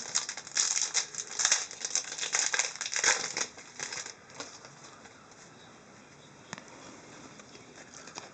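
Hockey trading cards and their pack wrappers being handled: crinkling and rustling for about four seconds, then softer, with a few light clicks.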